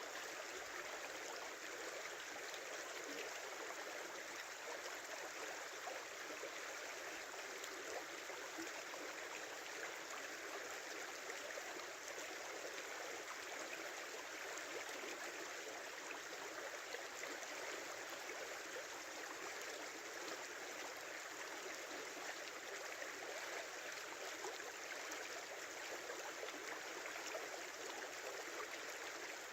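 Small river flowing, an even, unbroken babbling rush of running water.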